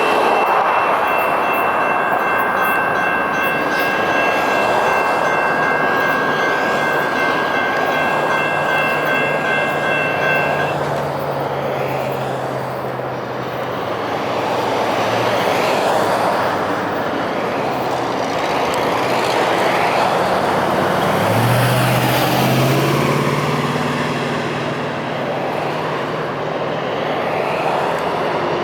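Sacramento light rail train running past, a broad rolling rumble with a steady high-pitched tone held for about the first ten seconds before it cuts off. About two-thirds of the way in, a low whine rises in pitch.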